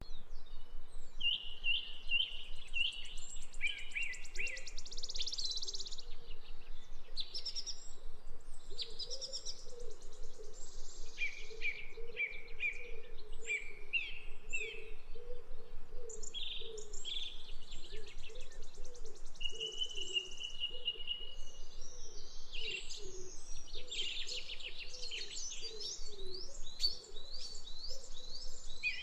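Birds chirping and singing in many short, rapid phrases and trills, with a low wavering sound running underneath.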